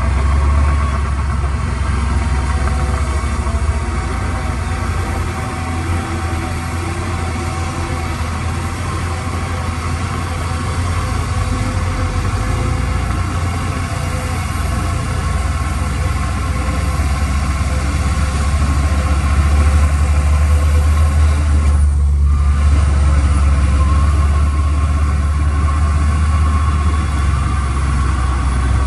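Heavy construction machine's diesel engine running steadily with a deep rumble, getting a little louder about two-thirds of the way through.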